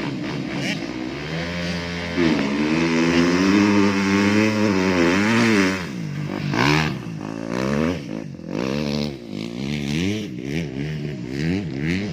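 Motocross bike engines revving hard, the pitch climbing and dropping with throttle and gear changes. One bike gets much louder about two seconds in and holds high revs until about six seconds, then the revs rise and fall in quick surges.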